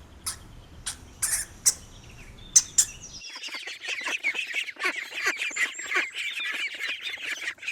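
Hamsters squeaking: a few short, sharp squeaks for about three seconds, then a dense run of rapid high-pitched chirping squeaks.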